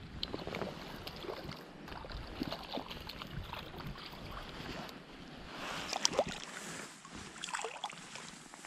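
Irregular water splashing and sloshing from a hooked brown trout being played near the surface, with a louder flurry of splashes about six seconds in.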